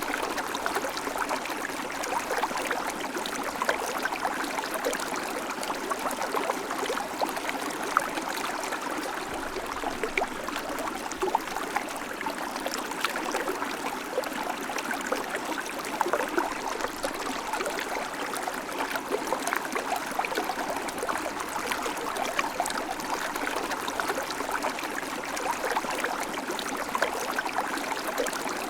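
River water flowing over stones, a steady babbling and gurgling rush with fine splashy crackle.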